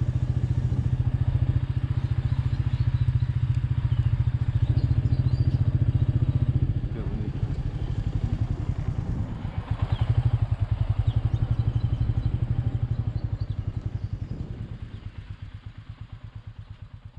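Royal Enfield Meteor 350's single-cylinder engine running under way with an even, low pulsing beat. It eases off about seven seconds in, picks up again around ten seconds, then fades away near the end.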